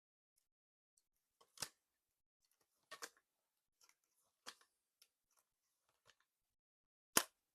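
A notebook giving faint, irregular sharp clicks and ticks, a handful spread unevenly, the loudest one near the end.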